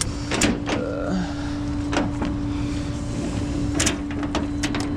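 Tow truck running with a steady whine over a low rumble, and several sharp clicks and knocks.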